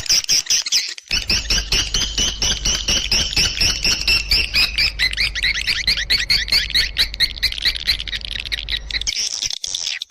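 Swiftlets twittering: a dense, rapid run of high, repeated chirps, several a second, with a low rumble underneath for most of the stretch and brief breaks about a second in and near the end.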